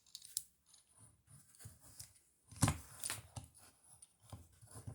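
Faint clicks and taps from a small home-made toy railway truck being handled, loudest a little over halfway through.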